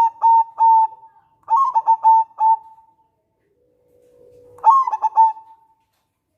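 Zebra dove (local perkutut) singing its staccato cooing song: three phrases of quick, clipped coos with short pauses between, the last opening with a soft low held note.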